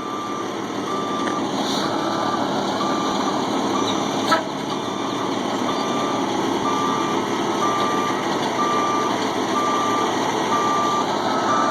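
Tow truck reversing: its backup alarm beeping steadily, about one and a half beeps a second, over the running engine. A single sharp knock about four seconds in.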